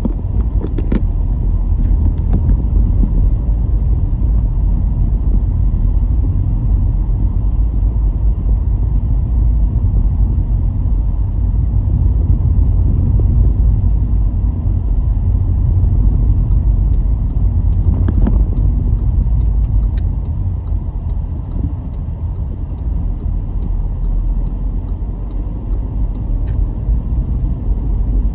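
A car driving along at a steady pace: a continuous low rumble of engine and tyres on the road, easing a little about two thirds of the way through. A few brief clicks and knocks sound over it.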